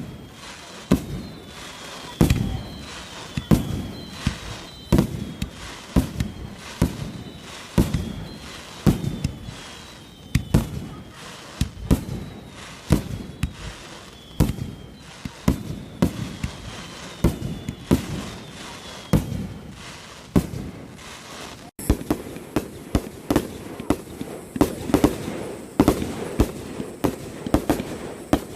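Aerial fireworks bursting one after another, a sharp bang about every second with a rumbling echo. Thin whistles glide down in pitch through most of the first part. After about 22 seconds the bangs come faster and denser.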